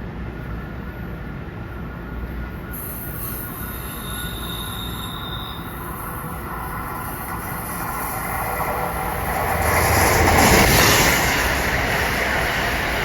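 A train running through the station on the Northeast Corridor, its rumble growing louder to a peak about ten seconds in, with faint thin wheel squeal above it.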